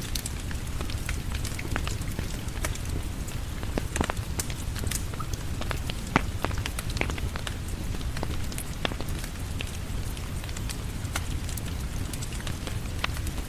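Steady rain with a low rumble underneath, mixed with a wood fire crackling and popping in irregular sharp clicks; one louder pop comes about six seconds in.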